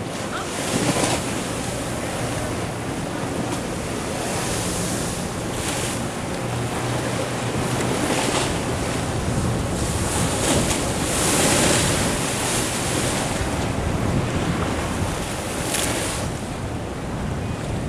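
Ocean surf washing in against the shore, swelling and falling every few seconds, with wind buffeting the microphone.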